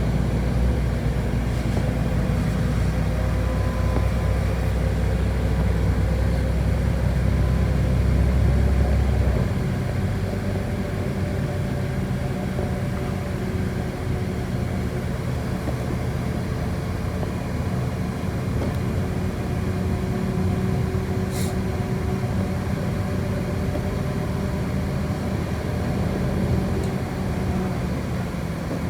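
Inside a moving city bus: steady running and road noise with a constant hum, and a heavy low rumble that drops away about ten seconds in. A single short click near the end.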